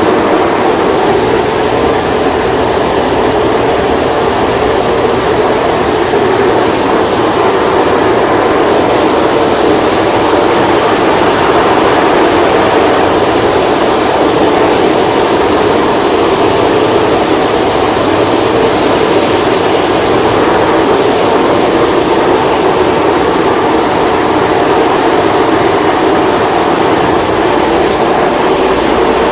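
McNeil automatic car wash equipment running, a loud steady whooshing machine noise.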